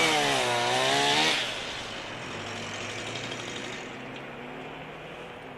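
Chainsaw cutting brush, revving with its pitch swinging up and down, then dropping back after about a second and a half to a quieter steady engine hum.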